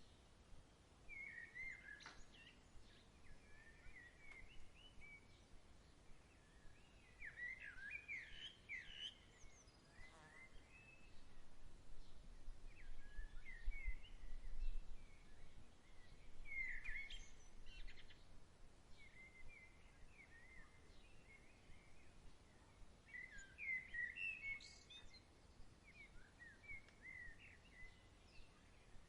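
Songbirds chirping, short runs of quick up-and-down notes repeated every few seconds, with a faint low rumble in the middle.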